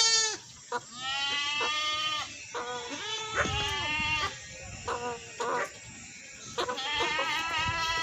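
Goat bleating over and over: long wavering bleats with shorter ones between them.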